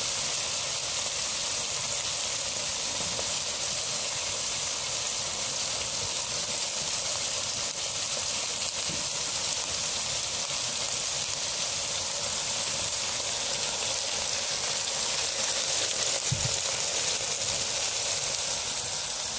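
Steady sizzling hiss of cubed bottle gourd and brinjal cooking in a pot of curry.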